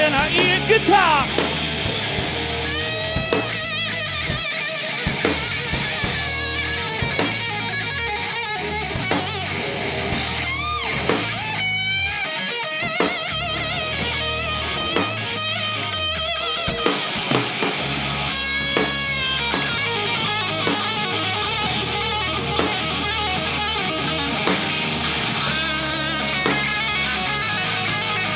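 Live rock band playing an instrumental break: a guitar lead with notes bending up and down over a steady drum-kit beat.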